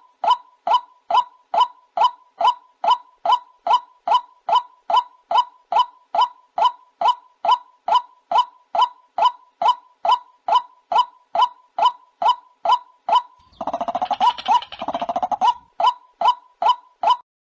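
White-breasted waterhen giving its repeated 'ruak ruak' call: a monotonous run of short, evenly spaced notes, about two to three a second. About two-thirds of the way through, a harsher, rougher stretch of calling overlaps the notes for about two seconds.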